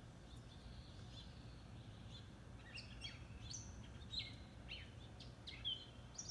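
Small birds chirping faintly in short, high, quick notes that come thicker after about two and a half seconds, over a low steady outdoor rumble.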